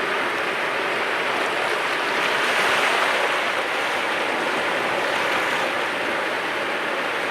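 Sea waves washing onto the shore, a continuous rush of surf that swells briefly about two to three seconds in.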